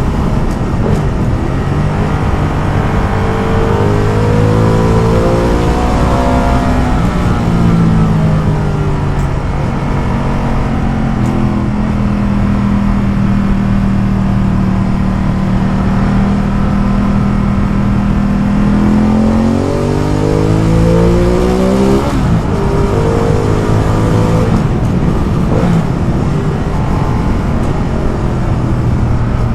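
Ducati Multistrada motorcycle engine under way. The revs climb and drop back several times as it accelerates and shifts, with a longer steady cruise in the middle.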